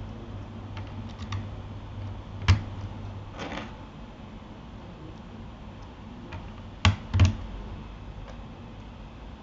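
Scattered key presses on a Keychron K8 mechanical keyboard fitted with Gateron Aliaz silent switches: a few soft taps, one sharper click about two and a half seconds in and a quick pair of clicks near the seven-second mark, over a steady low hum.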